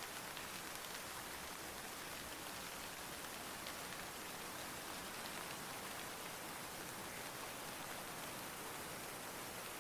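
Steady rainfall, an even hiss of drops with faint ticks of individual raindrops and no thunder.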